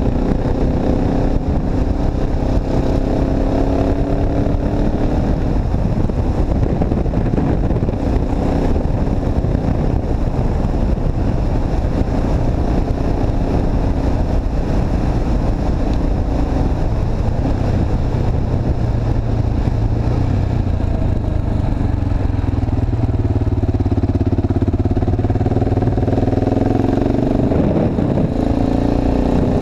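Single-cylinder KTM 690 Enduro R engine running at a steady road speed under heavy wind noise on the camera microphone. The engine note drops about halfway through, then climbs again near the end as the bike accelerates.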